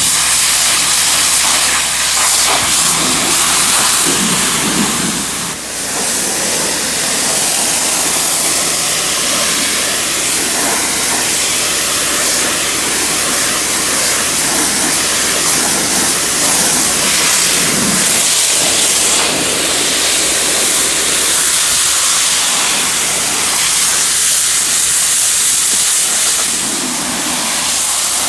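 Steady hiss of water spraying hard, rinsing out a removed car carpet, with a brief dip about five and a half seconds in.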